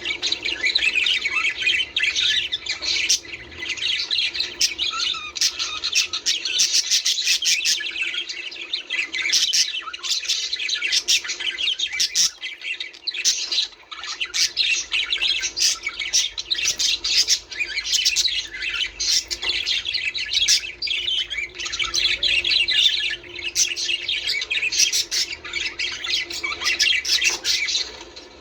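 A flock of budgerigars chattering, warbling and squawking without pause, thick with short sharp chirps.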